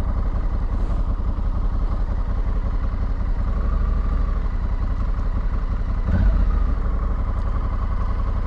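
Honda Africa Twin's parallel-twin engine running steadily, heard over a low rumble, with a brief louder bump about six seconds in.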